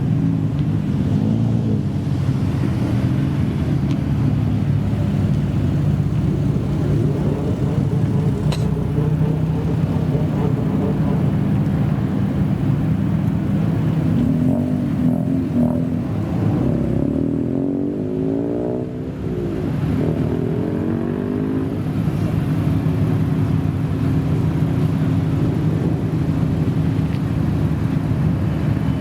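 Modified car engine running at low revs with a steady, deep note. In the middle its pitch swings up and down for several seconds before settling back to the steady note.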